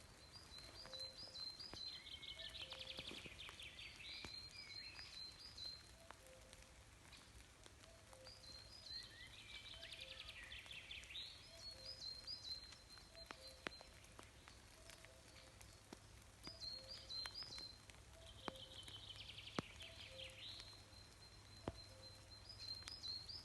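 Songbird singing in separate bouts of clear high notes and fast trills, a few seconds apart. Beneath it, a faint low two-note call repeats steadily from a distant bird.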